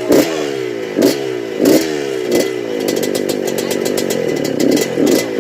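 Suzuki RM125 dirt bike's two-stroke single-cylinder engine running and being revved over and over: a sharp rise in throttle about every 0.7 s, with the pitch falling away between them. In the middle it holds a rougher, steadier rev for a second or two.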